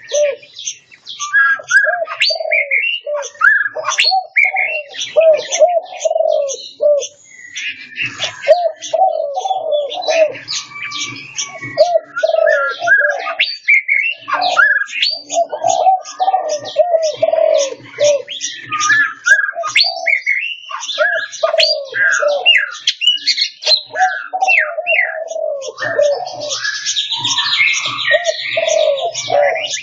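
Several aviary birds calling at once: runs of repeated low cooing notes under a steady mix of short high chirps and whistles, with a buzzy trill near the end.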